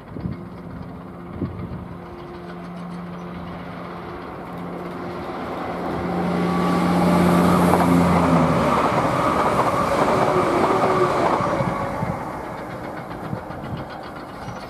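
Two-unit Class 170 Turbostar diesel multiple unit approaching and passing at speed: a steady engine drone grows louder, the rush of wheels on rail peaks as the train goes by, then fades away.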